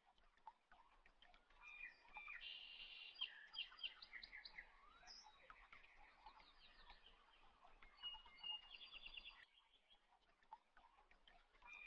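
Faint birds chirping, with one short, bright song phrase repeating twice about five seconds apart and scattered chirps between.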